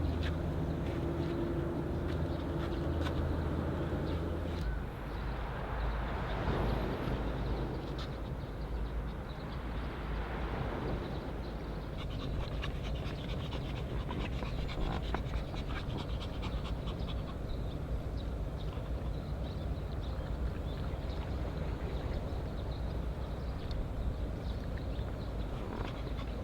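A dog panting hard and fast in the heat. A steady low hum sounds underneath for the first five seconds or so, then stops.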